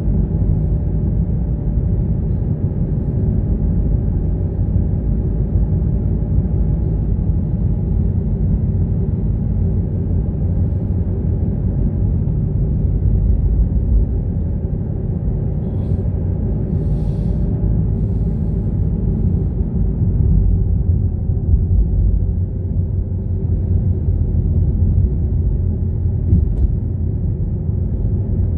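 A car driving: a steady low rumble of engine and road noise, with a faint even hum above it.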